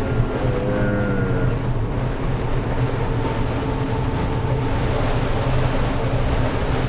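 Haunted-house ambience sound effects: a steady low rumbling drone, with a short wavering tone in the first second and a half.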